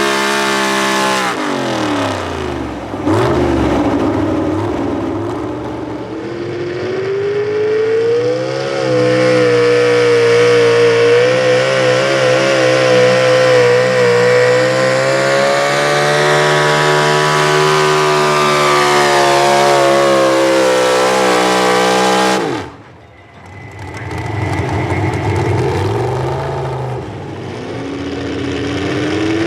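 Pro stock four-wheel-drive pulling truck engine running at high revs under load down the track, its pitch dipping at first and then held high and steady. About three quarters of the way through the sound stops abruptly, and an engine is heard building and rising again near the end.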